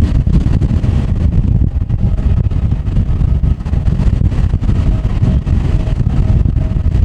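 Strong gusty wind buffeting the microphone: a loud, fluttering low rumble that all but drowns out the faint, intermittent whine of an airliner's jet engines.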